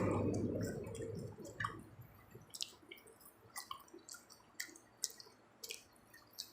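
Mouth sounds of chewing pizza: wet smacking clicks about once a second. A louder noise fades away over the first two seconds.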